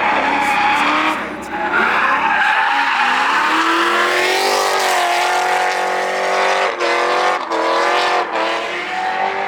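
Drift car at high revs with tires screeching in a slide. The engine note climbs in pitch about halfway through and is cut by several short breaks near the end.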